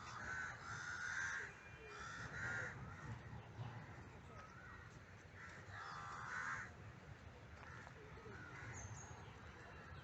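Crows cawing a few times: calls in the first seconds and again about six seconds in.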